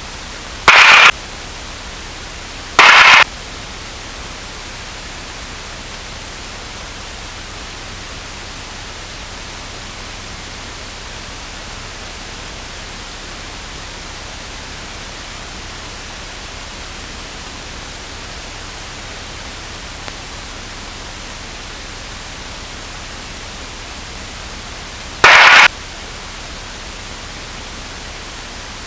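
Steady hiss of an aviation radio and intercom audio feed, broken three times by short, very loud bursts of static: squelch breaks from a transmitter keyed without speech.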